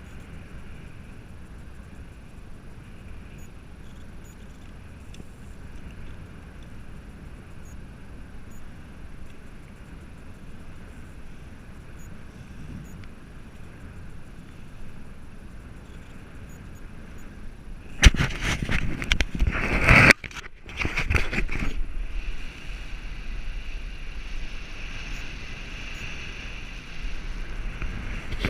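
Steady low rumble of wind and a motorboat at sea. About eighteen seconds in, four seconds of loud crackling buffeting hit the microphone, broken by a short gap, and the wind noise stays louder afterwards.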